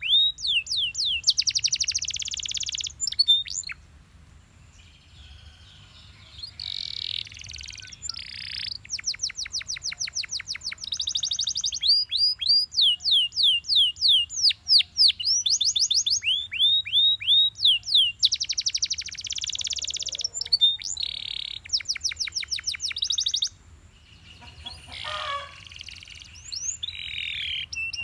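Belgian canary singing: fast trills of repeated falling high notes in runs of a second or two, one run after another, with the song dropping away briefly about four seconds in and again a few seconds before the end.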